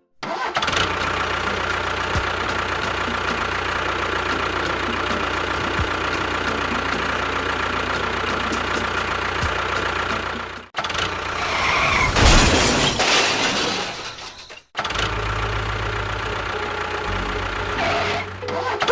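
A small motor running steadily, broken by two abrupt cuts into a louder, noisier stretch and then a lower, steady hum.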